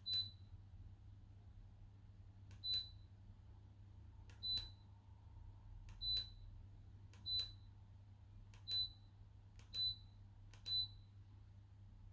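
TAGU Larsen electric fireplace's control unit giving eight short high beeps, one for each button press on its controls or remote, each preceded by a faint click.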